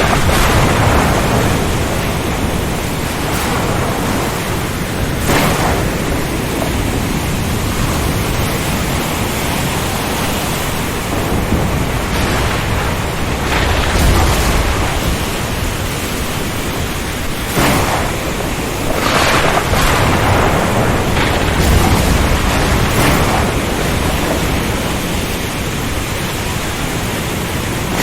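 Storm ambience of steady, heavy rain and wind noise, broken by several sudden loud surges and low rumbles of thunder around the middle and later on.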